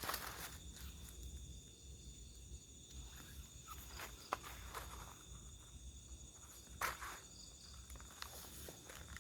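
A few slow, scattered footsteps, the clearest about seven seconds in, over a steady high drone of night insects.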